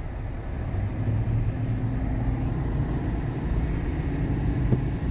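Steady low rumble of a vehicle being driven, heard from inside the cabin: engine and tyre noise on a snowy road.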